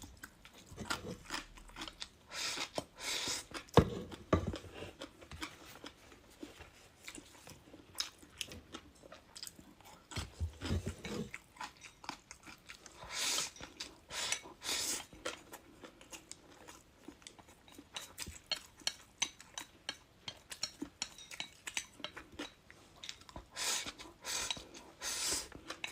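A person chewing crisp food close to the microphone, with irregular crunches and wet mouth clicks and a few louder clusters of crunching.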